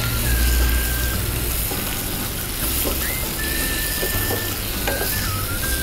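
Button mushrooms, tomato and green chillies sizzling in a frying pan as they are stir-fried, with a few light clicks of the spatula against the pan.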